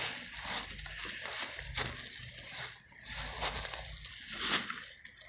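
Irregular rustling and crinkling close to the microphone, a series of short scrunching bursts roughly a second apart, that fades out near the end.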